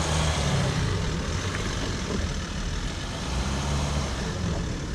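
Jeep Wrangler engine running at low revs, swelling and easing twice as the Jeep crawls over a trail obstacle.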